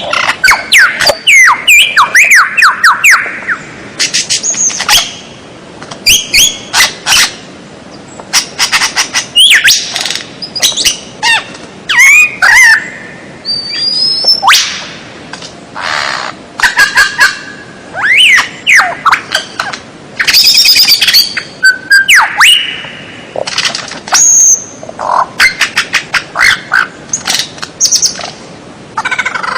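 Recorded wild songbird calls played as a masteran track for training caged songbirds: loud, rapid chirps, sharp rising and falling whistles and quick trills in bursts with short pauses.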